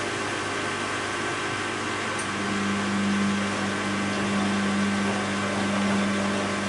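Bosch WAB28220 front-loading washing machine running, with the drum motor humming steadily. About two seconds in, a steady low whine from the motor grows louder.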